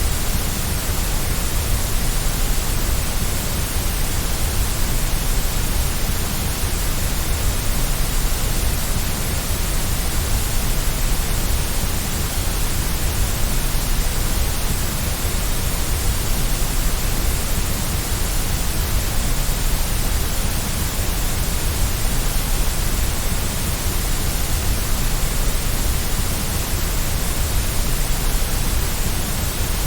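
Steady white noise for sleep: an even, unbroken hiss with a strong low rumble underneath.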